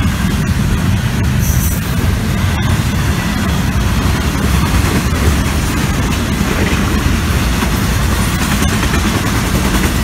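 Intermodal freight train cars rolling past close by: a loud, steady rumble of steel wheels on the rails from double-stack container well cars and trailer-carrying flatcars.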